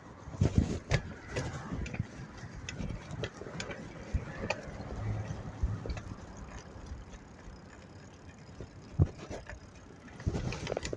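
A bicycle rattling and clicking in irregular knocks and taps over a low road rumble while being ridden.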